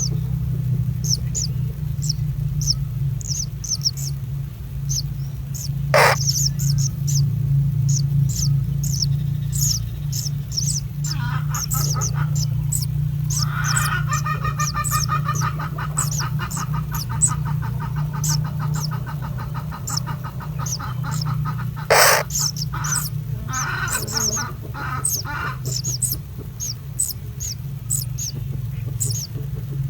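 Birds chirping: a steady run of short, high cheeps repeating every second or so, joined for several seconds midway by a faster, lower chattering call. Two sharp knocks stand out, and a steady low hum runs underneath.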